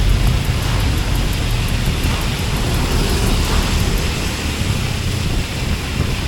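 Steady wind rush on the microphone with road noise from a Honda Beat scooter riding along.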